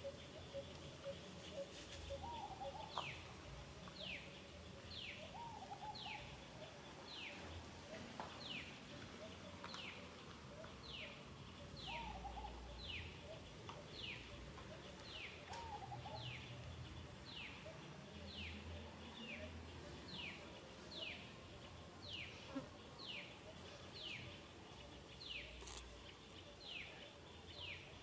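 A bird calling over and over in the background: a short chirp that falls in pitch, repeated steadily about one and a half times a second.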